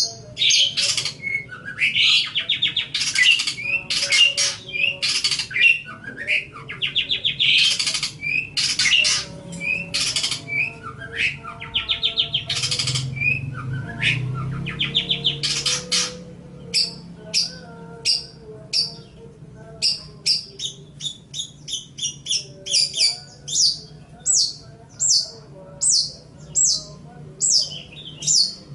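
Long-tailed shrike (cendet) singing: harsh, rasping chattering phrases over the first half, then a run of short sharp notes repeated about twice a second.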